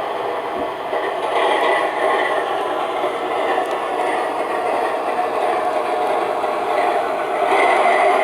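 MTH RailKing RS-3 O gauge model locomotive running, its Proto-Sound 2 speaker playing a steady diesel engine sound.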